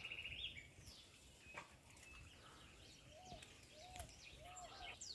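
Faint birdsong. A rapid high trill fades out in the first half second, then come scattered thin chirps and, in the second half, a few short, low, rounded notes a little over half a second apart.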